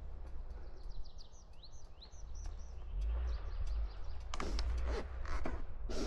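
A small songbird giving a quick series of short, high chirps over a steady low rumble, followed in the last two seconds by several loud crackling rustles.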